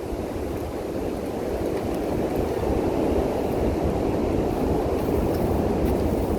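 Strong wind rushing and buffeting the microphone, a steady low rumble that builds slightly over the first few seconds.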